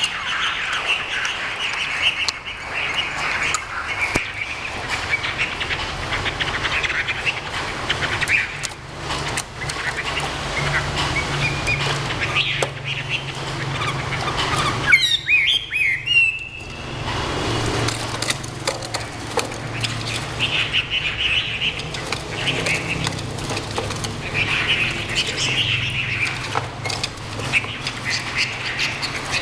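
Chinese hwamei songbird singing a long run of varied, warbling phrases, with a steady low hum underneath that briefly drops out about halfway through.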